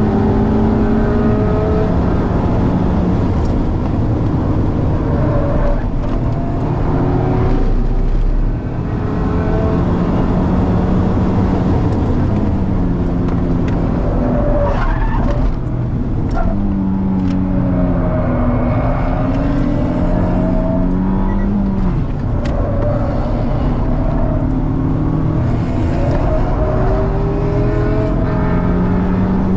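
Cars lapping a race track at high revs, heard from inside the cabin of a Mazda MX-5 ND2: its 2.0-litre four-cylinder engine and the exhaust of the BMW E92 M3's V8 running just ahead. Engine pitch repeatedly climbs and then drops at each gear change or braking point, with brief dips in loudness.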